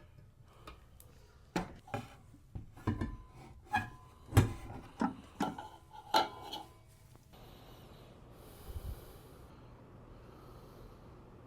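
A run of about a dozen irregular knocks and clicks over some five seconds, like hand work with tools or hardware, then a steady faint hiss.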